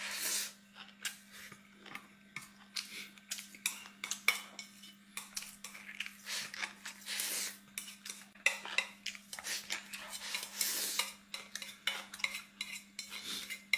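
Eating utensils clicking and scraping against a plate or bowl, with many short clinks and several longer scrapes. A faint steady low hum runs underneath.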